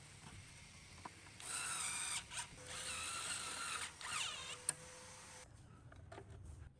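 A small electric power tool whines in bursts: a short run about a second and a half in, then a longer one with a wavering pitch that sags before it stops about five and a half seconds in.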